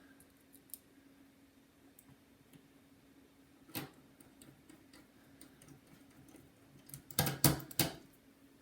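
Precision screwdriver driving the small screws that hold the heatsink to the MacBook's logic board: light scattered ticks of the bit and metal parts. There is a sharper click about four seconds in and a quick cluster of louder clicks a little after seven seconds.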